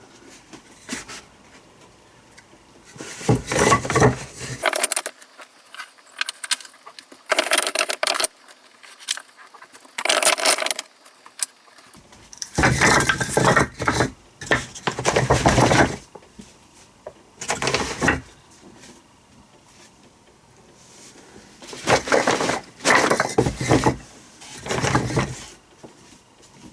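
Several bouts of clattering and knocking of hard objects being handled, with quieter gaps between them.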